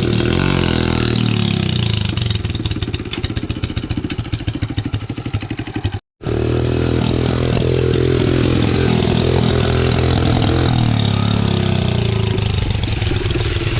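Single-cylinder motorcycle engine running, with a short gap of silence about six seconds in; after it the engine note dips and rises in pitch a few times.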